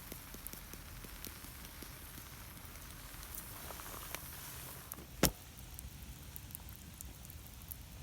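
Open wood fire crackling faintly, with scattered small pops and one sharp click about five seconds in.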